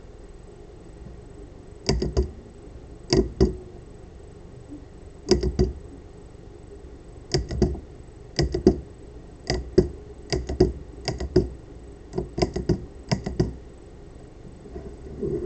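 Solenoid of a 3D-printed pulse-propulsion device firing, each pulse a pair of sharp clacks as the plunger strikes and returns. The pulses come irregularly at first, then roughly once a second from about seven seconds in.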